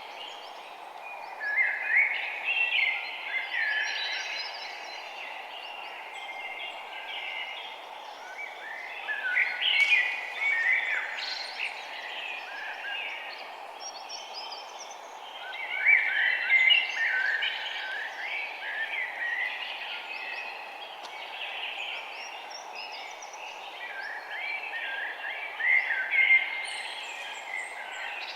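Small songbirds chirping and twittering in four busy bouts of a few seconds each, over a steady background hiss.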